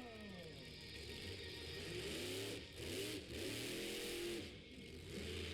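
Haymaker monster truck's engine revving hard, its pitch rising and falling several times as the throttle is worked.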